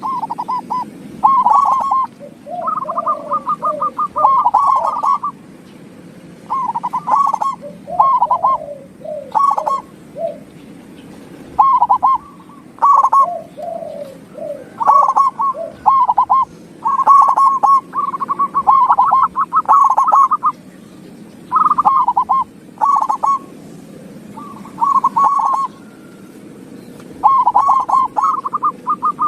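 Perkutut (zebra dove) song: phrase after phrase of quick, bubbling coos, each lasting about a second with short gaps between, some phrases ending in lower sliding notes.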